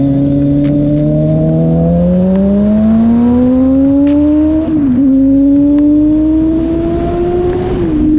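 Suzuki GSX-R sport bike engine accelerating through the gears. Its pitch climbs steadily from about two seconds in, dips sharply at an upshift a little before five seconds, climbs again, then drops near the end.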